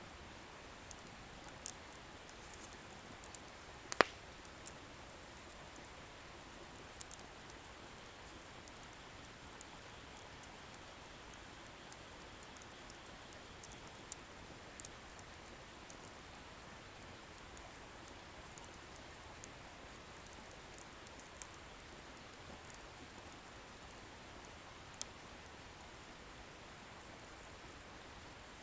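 Wood fire burning with a faint, steady hiss and scattered sharp crackles, one much louder pop about four seconds in.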